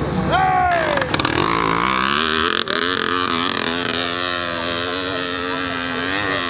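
Dirt bike engine revving hard: its pitch falls away within the first second, then climbs again and holds at steady high revs.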